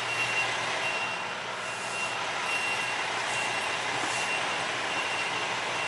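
A vehicle backup alarm beeping steadily at an even pace, faint against a steady hiss and low hum of truck-yard machinery.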